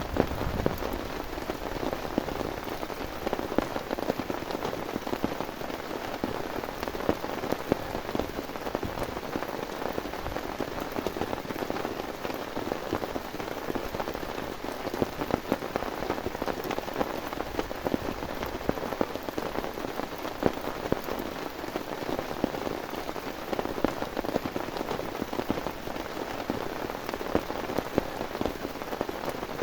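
Heavy rain falling steadily, with a dense, even hiss of many close drop impacts.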